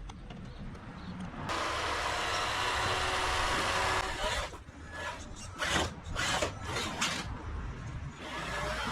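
Electric RC crawler truck driving over rough ground, its body and screw-and-washer skid plates scraping along. It runs steadily at first, then in several short bursts.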